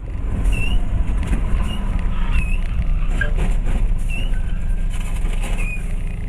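Road vehicle driving: a steady, loud low rumble of engine and road noise, with several short high chirps and a few clicks over it.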